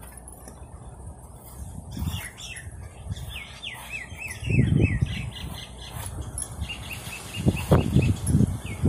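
A bird singing a run of quick falling notes, then a faster string of short repeated chirps near the end. Under it, low rubbing bumps from peeling a raw green mango with a serrated peeler, loudest twice in the second half.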